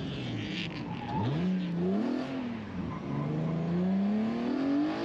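Drift car's engine revving up and down as the throttle is worked on a wet track: the pitch falls, swoops up about a second in, dips again near three seconds, then climbs steadily toward the end. The car is set up very loose, so mashing the throttle breaks the rear loose.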